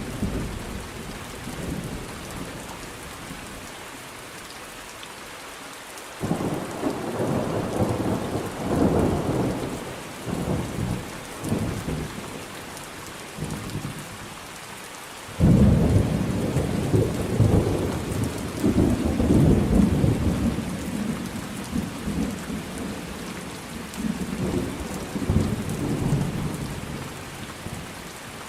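Thunderstorm: steady rain falling, with thunder. A rumble breaks in suddenly about six seconds in and rolls on for several seconds, then a louder thunderclap strikes about halfway through and rumbles on, slowly dying away toward the end.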